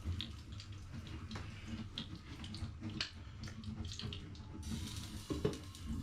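Eggy bread frying in a pan, sizzling with irregular crackles and pops over a low steady hum.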